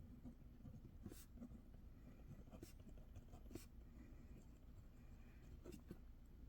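Faint scratching of a pen writing on paper, with a few light ticks.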